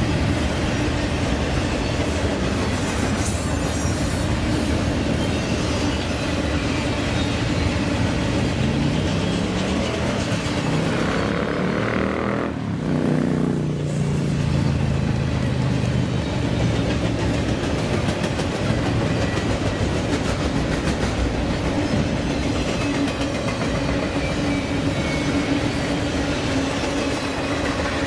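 Train running on the rails, its wheels clattering steadily over the track with a constant low hum throughout. About halfway through, the pitch shifts in a brief sweep.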